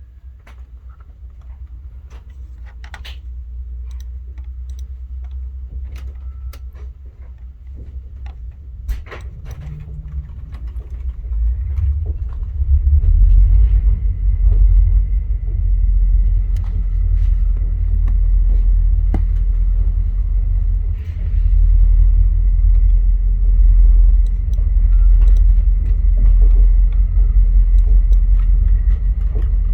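Via Rail passenger train pulling out, heard from on board: a low rumble that grows as the train gathers speed and turns loud about twelve seconds in. A few sharp clicks and creaks come early on, and a faint steady whine joins later.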